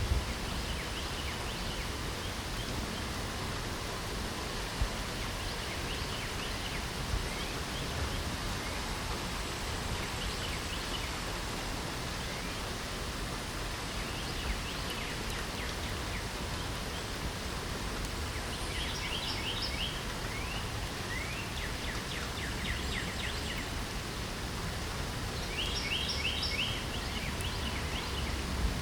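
Steady light rain falling, an even hiss, with songbirds chirping in short trills now and then, more often in the second half.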